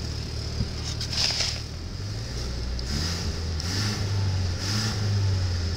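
2011 Chevrolet Cruze's 1.4-litre turbocharged four-cylinder engine idling steadily, a healthy-sounding run that the tester judges to sound good.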